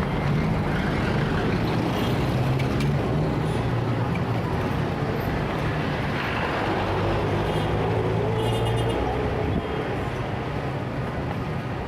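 Heavy city traffic: a steady mix of vehicle engines and road noise, with a low engine hum that drops away about nine and a half seconds in.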